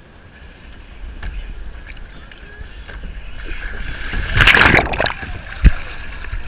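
Water sloshing around a kayak, building up, then a loud splash about four and a half seconds in as a person falls off the kayak into the water, followed by a sharp thump about a second later.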